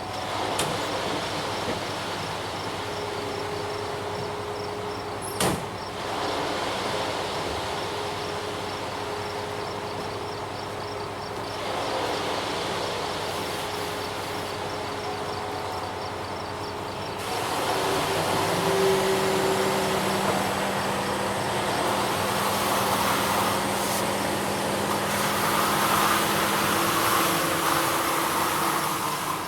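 Ready-mix concrete truck's engine running steadily, growing louder about two-thirds of the way through, with one sharp knock about five seconds in. Insects chirp faintly in the background.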